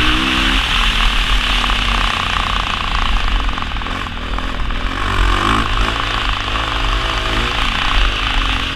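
2017 Honda CRF450's single-cylinder four-stroke engine under riding load, its revs rising and falling through the gears, climbing again about five seconds in. Heavy wind rush on the helmet-mounted microphone runs underneath.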